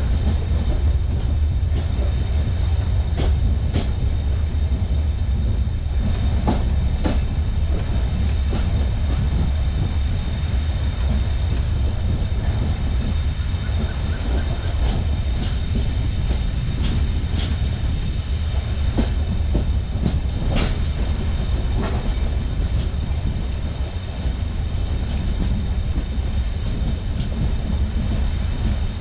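Indian Railways passenger train running along the track: a heavy, steady low rumble with sharp, irregular clicks and clacks from the wheels. A faint steady high whine runs underneath.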